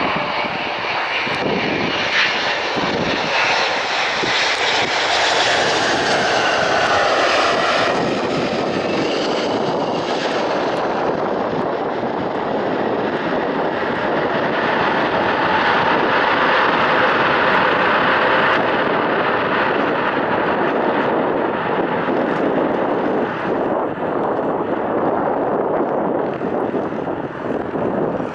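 Boeing 777-200 jet engines running loud and steady as the airliner passes, with a whine that falls in pitch a few seconds in. Gusty wind rumbles on the microphone in the first seconds.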